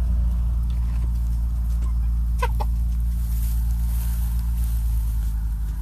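A steady low engine hum, with a chicken clucking twice about two and a half seconds in.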